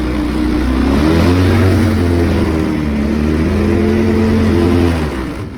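ATV (four-wheeler) engine running with the throttle worked, its pitch rising and falling several times over a steady low hum, then easing off near the end.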